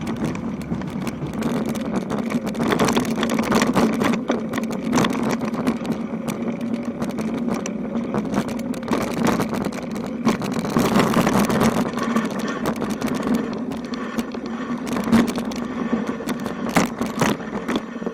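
Bicycle riding over a rough road: steady rolling noise with frequent rattles and knocks.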